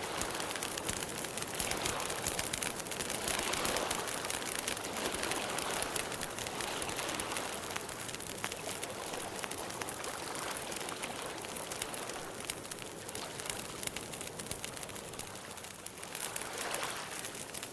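Campfire crackling, a steady hiss of burning wood dotted with many small, sharp pops.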